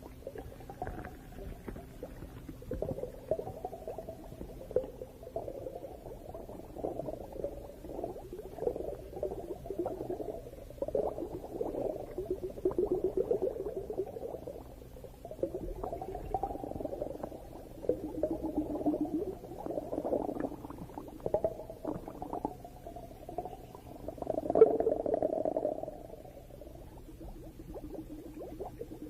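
Muffled underwater bubbling and gurgling that comes in irregular bursts every few seconds, heard as recorded underwater. The loudest burst comes near the end, and a faint steady low hum runs underneath.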